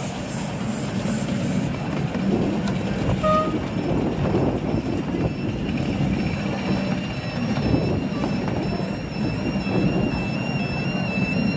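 Narrow-gauge passenger coaches rumbling and rattling along the track behind two steam locomotives, heard from inside an open-sided coach. A hiss of steam is heard in the first second or two.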